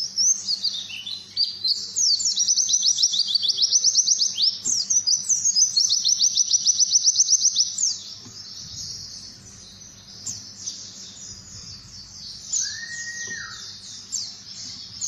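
A songbird singing fast, high trills and chirps, loud and rapidly repeated for about the first eight seconds, then softer and more scattered. A short lower whistle slides down near the end.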